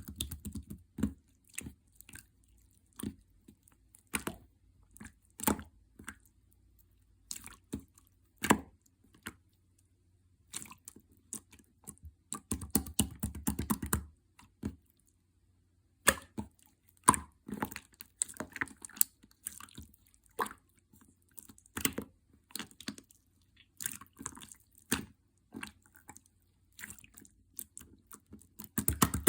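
Clear slime with stickers on top being pressed and squished by hand, giving irregular sticky clicks and pops, single ones and now and then a dense run of crackling.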